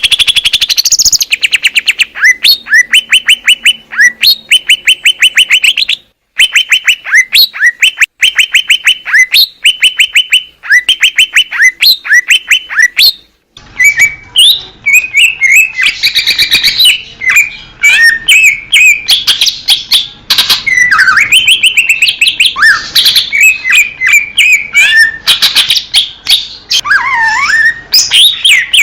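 Cucak ijo (leafbird) singing loudly. For about the first half it gives fast rattling trills in short repeated phrases. After a brief break it turns to a more varied song of whistles sweeping up and down.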